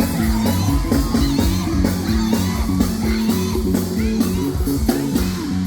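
Band playing loud music live: a steady drum beat under a bass line and electric guitar, with a voice singing over it.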